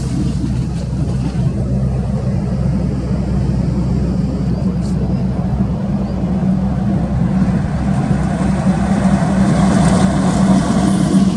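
Heavy road vehicle engine running steadily with a low hum, and highway traffic noise building up near the end.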